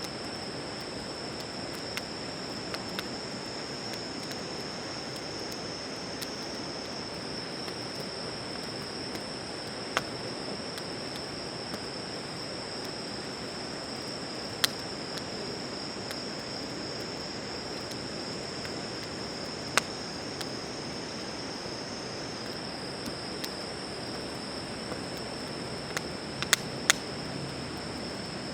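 Crickets trilling steadily on one high pitch, with a wood campfire giving a few sharp isolated pops now and then.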